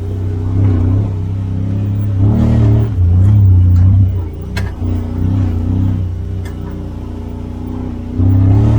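Side-by-side UTV engine running under way, revving up and down with the throttle, with a louder surge near the end.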